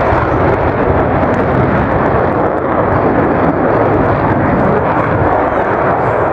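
Aircraft engine noise of a fixed-wing aircraft in display flight, a steady, loud, even rush.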